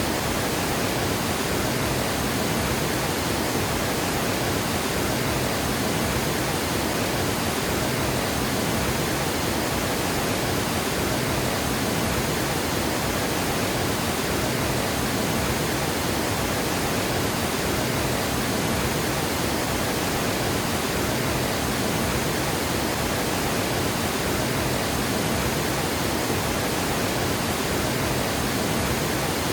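Water gushing over a dam spillway: a steady, unbroken rush of falling water.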